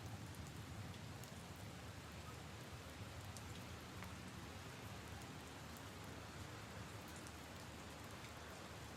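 Soft, steady rain falling on puddles and leaves, with scattered individual drops ticking through the patter.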